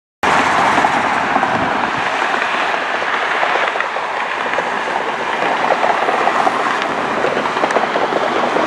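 Steady, loud rushing roar of a jet airliner's engines, with a crackly texture, starting abruptly.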